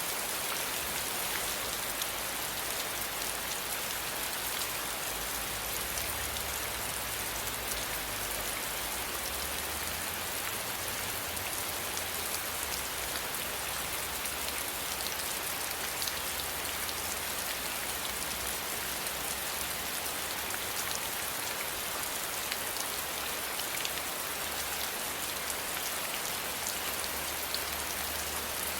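Steady rain falling, an even hiss with fine scattered drop ticks, over a soft low rumble that swells and fades.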